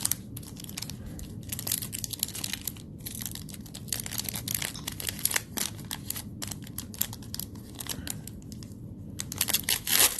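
Plastic trading-card pack wrapper being torn open and crinkled: an irregular crackle of many small snaps, thickest near the end.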